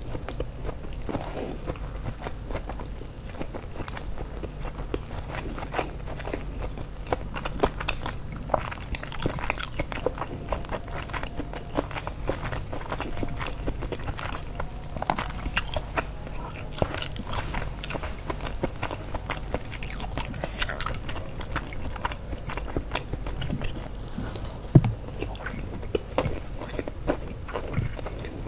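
Close-miked eating: chewing and crunching mouthfuls of crispy fried chicken and rice, with many small wet mouth clicks, and one sharper knock near the end.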